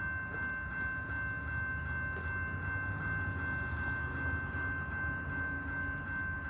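Freight train rolling past slowly: a low steady rumble with a steady high-pitched ring held over it the whole time.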